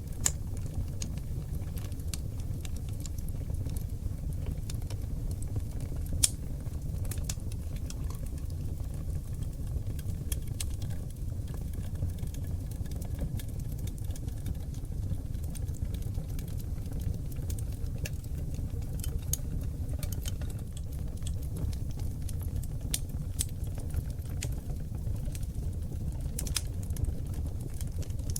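Oak logs burning in an open fireplace: a steady low rush of flame under scattered sharp crackles and pops from the wood, with louder pops just after the start and about six seconds in.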